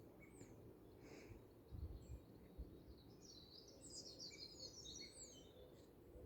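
Faint birdsong over a quiet background: scattered high chirps, with a rapid twittering phrase of short falling notes in the middle.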